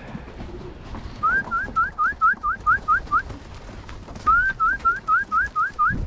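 A bird calling in two runs of short, rising whistled notes, about four a second, over a low rumble of wind.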